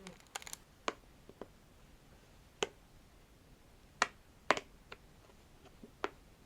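Scattered sharp taps, about a dozen at irregular intervals, the loudest two coming about four and four and a half seconds in.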